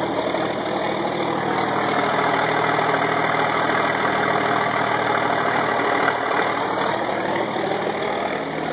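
1986 AM General M35A2C 2½-ton truck's turbocharged multifuel inline-six diesel idling steadily, running smooth while warming up after a cold start.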